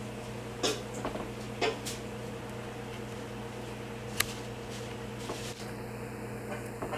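Steady electrical hum indoors, with a few sharp clicks and knocks, several close together in the first two seconds and one a little after the halfway point.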